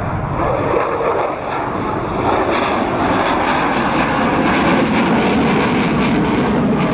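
Sukhoi Su-22 Fitter jet aircraft flying a display pass, its engine noise loud and steady from deep rumble to high hiss.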